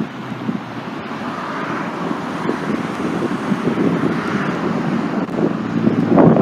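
Road traffic noise of cars driving along a city street, building louder toward the end, with wind buffeting the microphone.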